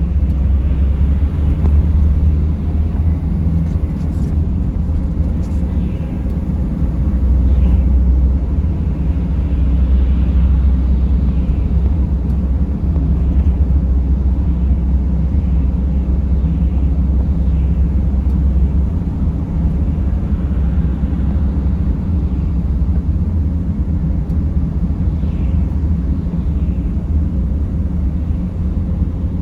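Steady low rumble of a moving van's engine and tyres while it is driving, from a Mercedes Sprinter.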